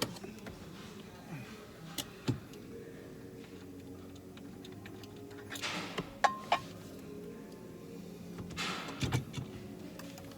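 Scattered clicks and knocks of tools and parts being handled, with two short scraping rustles, over faint steady background music.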